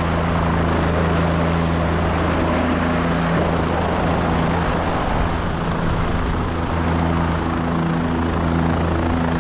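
Helicopter in flight: a steady, loud drone of the rotor and turbine engine with a low hum underneath.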